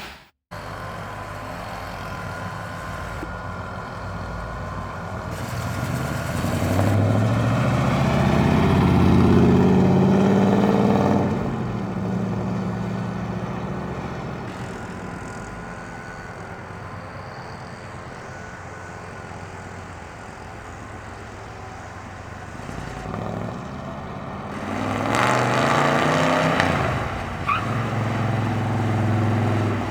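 1962 Chevrolet Biscayne's 454 cubic-inch V8, breathing through headers and Flowmaster mufflers, running as the car is driven. Its pitch rises under acceleration and falls back twice, once about a quarter of the way through and again near the end.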